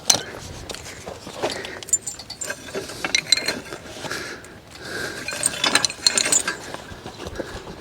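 Draft horse harness chains and metal hardware clinking and rattling in irregular bursts, loudest about two-thirds of the way through.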